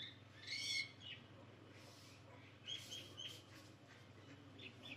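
A bird chirping faintly: one call under a second in, then three short high chirps in quick succession about three seconds in.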